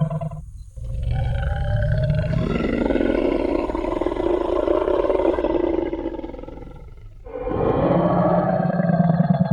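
Tyrannosaurus rex roar sound effect: a deep growl breaks off, then a long, rough roar swells and fades away. A second growling roar starts up a couple of seconds before the end.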